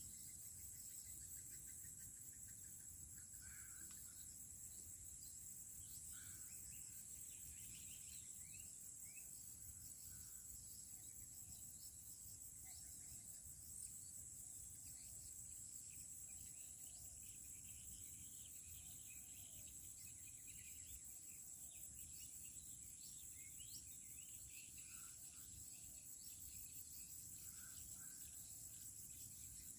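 Faint, steady high-pitched trilling of insects, with scattered short bird chirps over a low background rumble.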